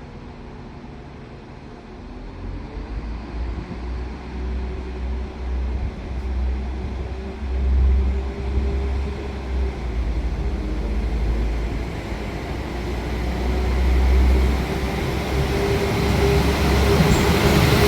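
Transport for Wales Class 197 diesel multiple unit running at the platform, a deep engine rumble with a steady whine over it, growing louder throughout.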